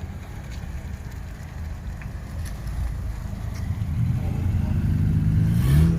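A car engine running close by, growing steadily louder. Its note rises in pitch toward the end.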